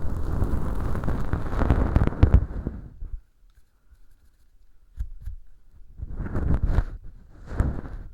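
Bonten feather earpick rubbing in an ASMR microphone's ear packed with Velcro fluff and dry fake earwax. There is a dense, scratchy rustle that stops about three seconds in. Then comes a soft tap, and near the end a few short rustling strokes.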